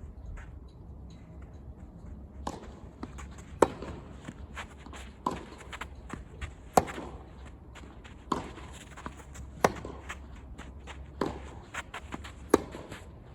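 Tennis rally: a ball struck back and forth by rackets about every second and a half, every other hit louder, with bounces and players' footsteps between the hits.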